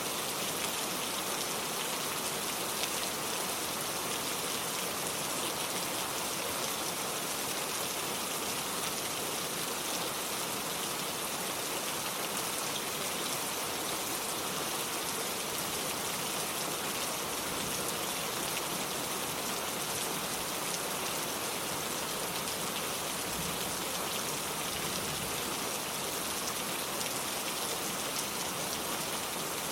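Steady rain falling on a wooden porch and the lake's surface, a dense even patter of drops without a break.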